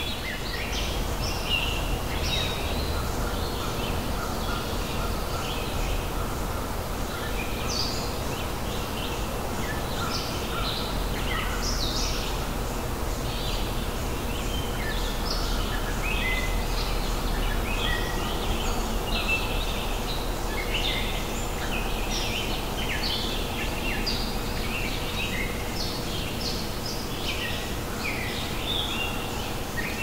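Many birds chirping and calling, short overlapping calls, over a steady low rumble of outdoor ambience.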